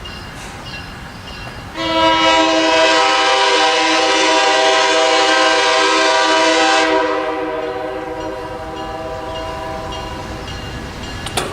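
Train horn sounding one long blast of several steady tones at once. It starts about two seconds in, holds for about five seconds and dies away, over the rumble of the passing train.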